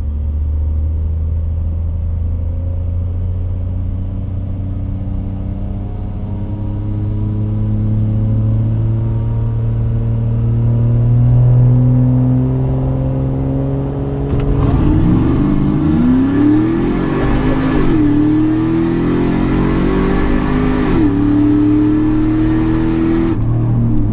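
Cadillac Escalade SUV engine making an eighth-mile drag run. It runs steadily, its pitch creeping up, then about 14 seconds in it goes to full throttle at launch. The revs climb and drop back at three automatic upshifts before the driver lifts near the end.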